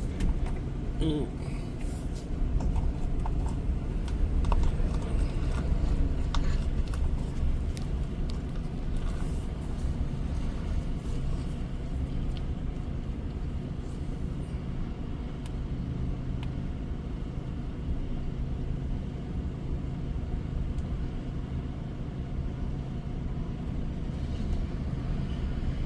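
Heavy-haul semi truck's diesel engine running steadily at low speed, a constant low rumble, with a few light clicks and knocks in the first several seconds.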